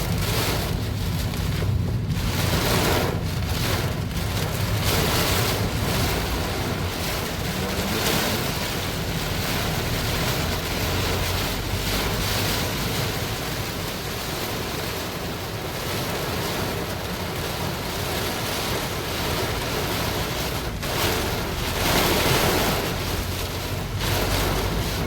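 Heavy rain pouring down in strong wind: a steady rushing hiss that swells with the gusts, over a low rumble of wind buffeting the microphone.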